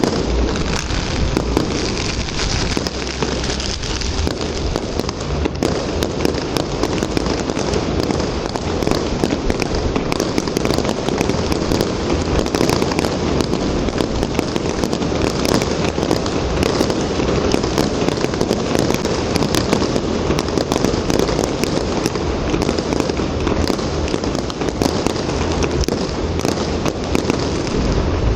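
Fireworks display: a dense, unbroken barrage of crackling and popping that keeps going without a pause.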